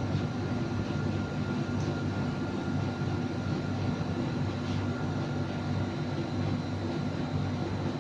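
Steady drone of a jet airliner in cruise heard from inside the cabin: engine hum and rushing airflow, with a faint high whine over it.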